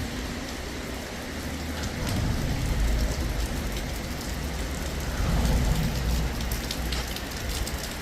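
Steady rain falling, a dense patter of drops, with low rumbling swells about two seconds in and again about five seconds in.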